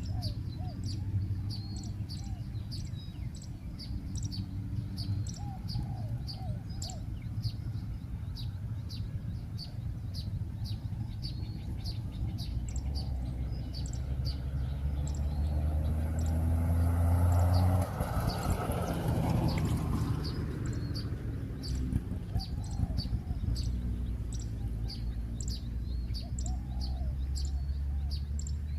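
Spotted doves cooing a few times in low, soft phrases, over steady high chirping from small birds. A low rumble swells and fades a little past the middle.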